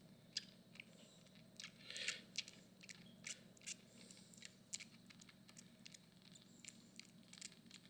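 Faint, irregular wet clicks and smacks of a bottle-fed kitten suckling milk from the nipple.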